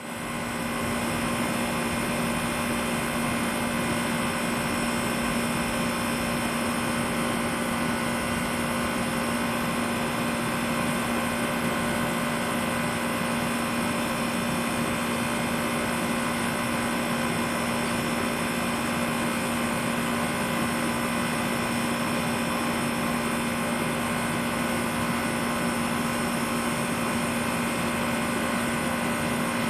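SmartComfort heat pump running steadily: a constant hum with a strong low steady tone over an even rush of noise.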